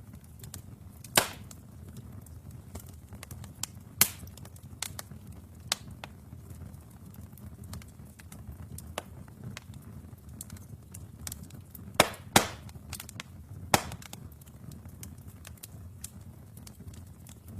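Wood fire burning in a fireplace: a steady low rumble of the flames with scattered crackles and several sharp pops of the burning logs, two of them close together about twelve seconds in.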